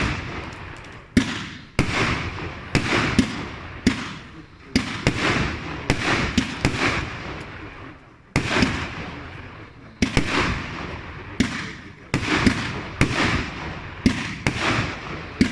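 Compact single-ignition firework show firing shell after shell, a sharp bang about every half second to second, each followed by a fading crackle and hiss as the effects burst.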